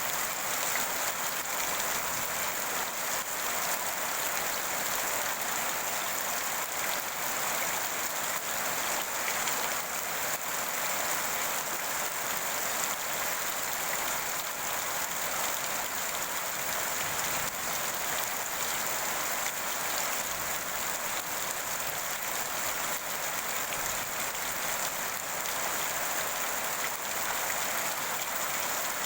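Steady rainfall, a dense patter of drops hitting a surface with a constant hiss.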